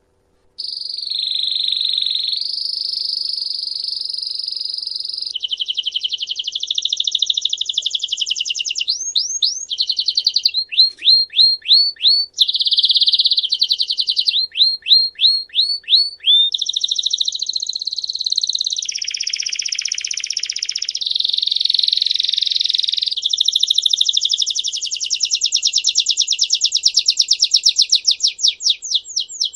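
A songbird singing a continuous song of rapid trills and rolls, switching from one fast repeated phrase to the next every second or two. It starts abruptly about half a second in.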